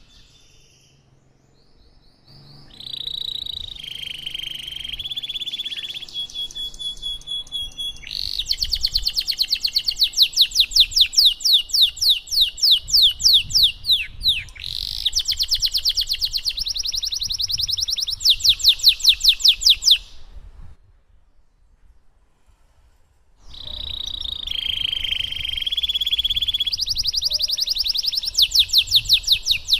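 Domestic canary singing a long song: a held, wavering high note, then long runs of fast repeated down-sweeping notes. It breaks off for about three seconds past the middle and then starts a new phrase the same way.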